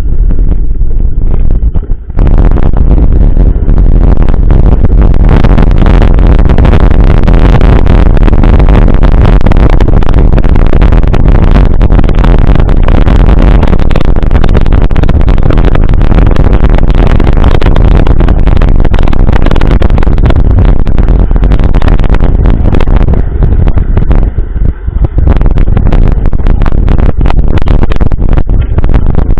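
Wind buffeting the microphone and the rattle and knock of a mountain bike riding fast over a rough trail, loud throughout, with a short dip about two seconds in.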